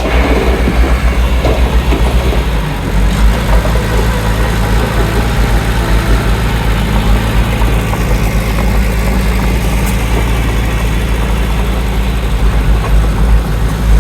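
Heavy diesel engine of an earthmoving machine running steadily with a deep rumble, its engine note shifting about three seconds in.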